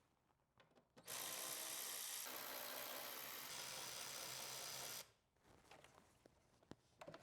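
A power tool's motor running steadily for about four seconds, switching on abruptly about a second in and cutting off sharply, with a couple of small shifts in tone along the way.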